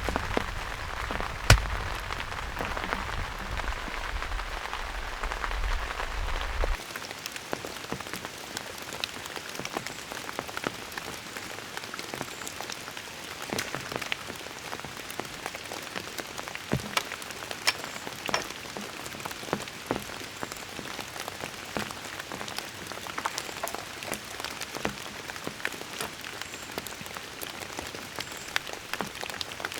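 Rain falling, with many separate drops landing in sharp taps over a steady hiss. For about the first seven seconds it is a heavier wash with a low rumble under it; then it cuts to a lighter patter of scattered drops.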